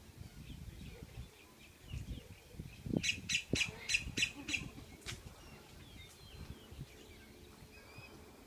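Birds chirping, with a quick run of about six sharp, high calls about three seconds in, over a faint low rumble.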